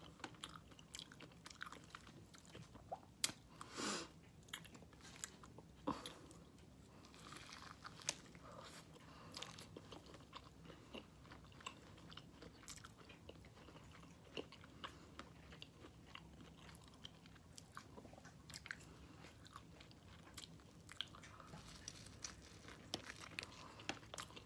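Quiet chewing and crunching of corn on the cob coated in crushed hot chips, close to the microphone, with irregular wet mouth clicks and smacks. A sharper crunch comes about three seconds in.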